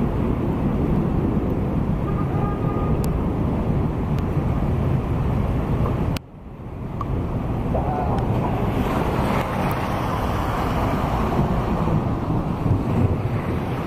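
Loud, steady outdoor noise that is mostly low rumble, of the kind wind buffeting a microphone or nearby traffic makes. About six seconds in it drops away suddenly and swells back up over a couple of seconds.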